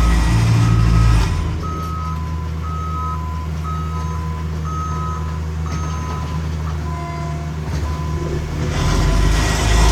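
Backup alarm on a heavy paving vehicle, beeping in alternating high and low tones, over a diesel engine running steadily. The engine grows louder at the start and again near the end, after the beeping stops.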